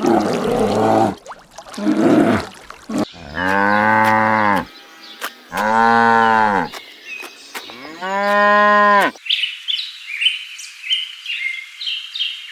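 Cow mooing: two short, rough calls, then three long moos of over a second each. After about nine seconds the mooing stops and high chirping calls take over.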